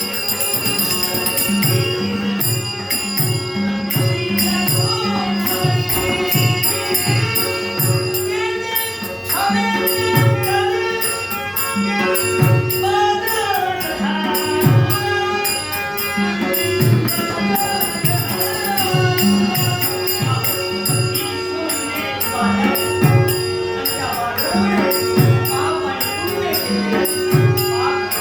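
Live Dashavatar theatre music: a drum beating a steady repeated pattern, with jingling cymbals and a held drone under it. A wavering melody line comes in about nine seconds in.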